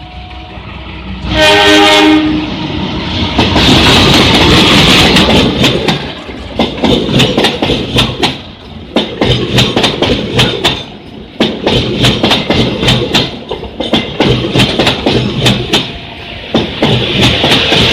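CC 201 diesel-electric locomotive sounds its horn once, briefly, as the train comes in. Then the train passes close by, loud, with the rapid clickety-clack of its wheels over the rail joints in uneven groups.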